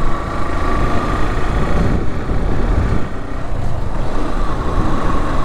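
Motorcycle engine running steadily while riding, with road noise and a steady whining tone over the rumble.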